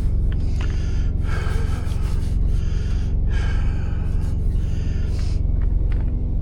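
Steady low hum of an idling diesel engine, with a series of short, breathy hissing sounds about once a second over it.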